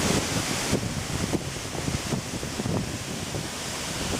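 Steady rush of a waterfall and river water, with gusts of wind buffeting the microphone.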